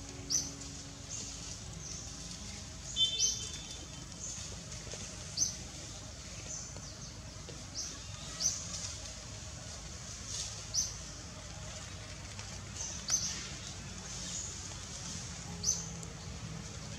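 A bird repeating short, high chirps every second or two, over a steady forest background hiss.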